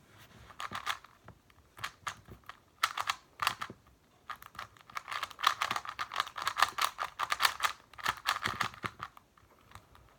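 Plastic 2x2 speed cube, a non-magnetic YuXin Little Magic, being turned by hand in a timed solve: a few separate clicks of the layers turning, then a fast, dense run of clacking turns that stops shortly before the end.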